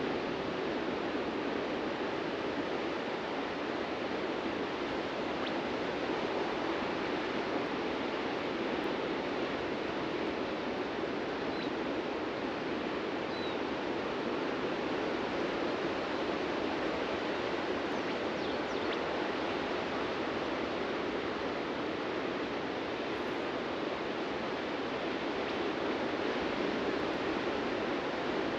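Ocean surf breaking on a beach, heard as a steady, continuous wash of noise.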